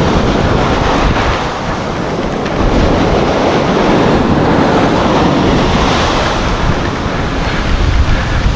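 Surf washing on a beach, with wind buffeting the microphone.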